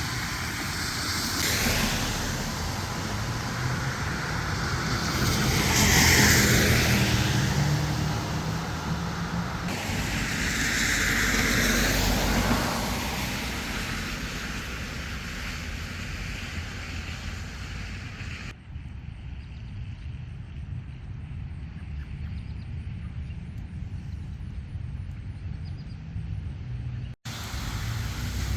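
Road traffic: cars passing on a city street, two of them louder, each swelling up and fading away, then a quieter steady traffic hum.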